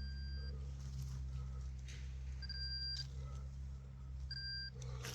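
Metal detector sounding three short, high target beeps about two seconds apart over a steady low hum, as it is swept over a target in the dig hole.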